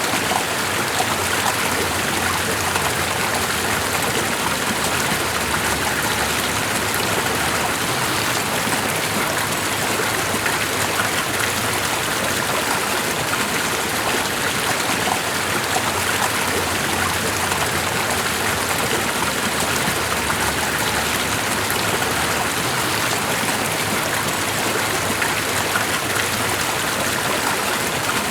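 Steady running water, like a flowing stream, with an even, unchanging rush.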